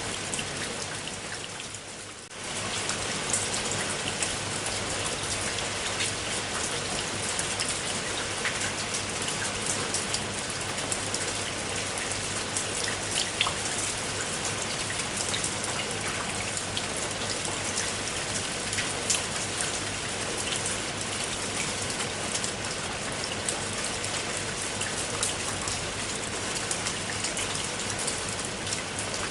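Steady rain falling, many individual drops ticking through an even hiss. It fades briefly about two seconds in, then comes back to its steady level.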